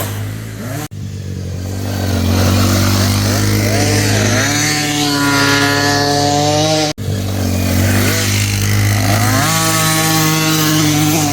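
Small dirt bike engine revving hard, its pitch climbing and dropping back several times as it pulls through the gears. The sound breaks off abruptly twice, once about a second in and once past the middle.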